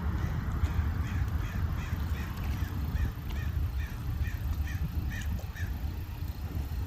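A bird calling in a quick series of short notes, about three a second for some five seconds, then stopping, over a steady low rumble.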